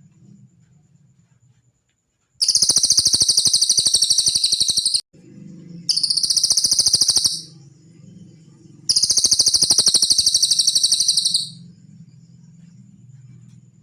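Cililin songbird singing three long, very rapid, high-pitched trills, each lasting about one and a half to two and a half seconds, with short pauses between them.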